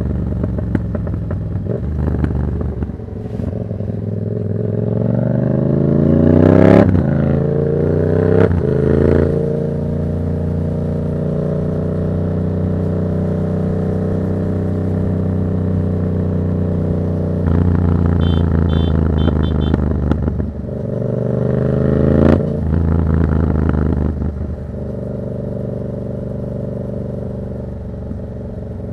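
Yamaha MT-07's 689 cc parallel-twin engine, on a Black Widow exhaust with its dB killer removed, pulling up through the revs with gear changes, holding a steady cruise, then revving up again and easing back to a lower, steady note near the end.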